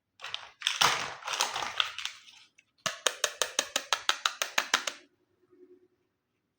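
Plastic packaging and toy pieces of a miniature toy kitchen set being handled: about two seconds of crinkling and crackling, then a quick run of about a dozen even clicks, roughly six a second.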